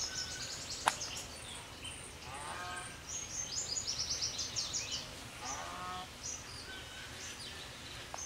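Small birds singing outdoors, with rapid high trills repeated again and again and a lower call twice, about two and a half and five and a half seconds in. There is a single sharp click about a second in.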